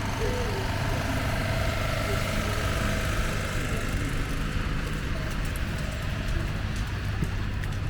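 City street traffic: a steady low rumble of vehicles, with faint engine tones over it, and small clicks in the second half.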